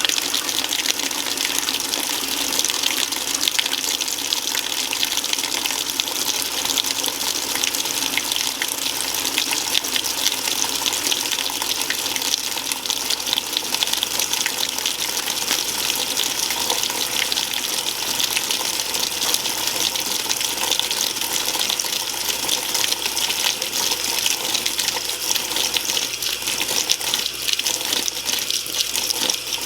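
Water spraying into the tub of an Admiral (Whirlpool-built) belt-drive top-loading washing machine during its spray rinse. It is a steady, even rush of water that holds unchanged throughout.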